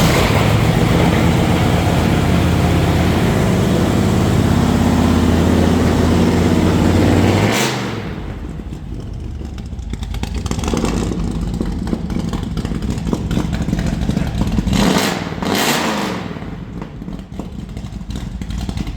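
Oldsmobile 442's V8 engine firing up and running at a loud, steady fast idle, then dropping to a quieter idle about eight seconds in, with a few short throttle blips near the end.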